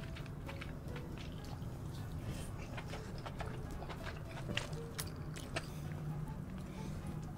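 Close-miked wet eating sounds: king crab meat coated in thick sauce being chewed, with many short sticky clicks and smacks. Near the end a crab piece is dipped and swirled in the bowl of sauce.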